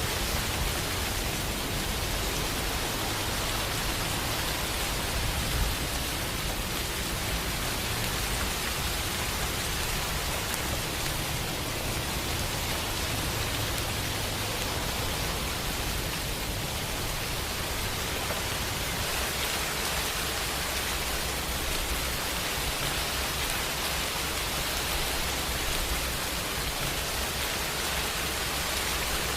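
Steady, even rainfall with a continuous hiss of drops.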